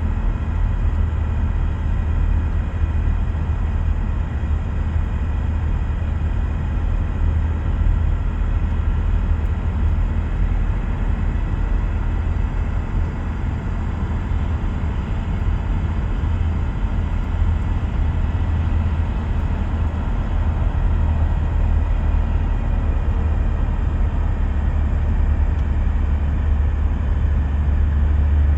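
Car driving at speed with a steady low rumble and a few thin, steady whine tones above it. The sound is the driveline noise that the title puts down to the M32 six-speed manual gearbox, a unit known for bearing whine.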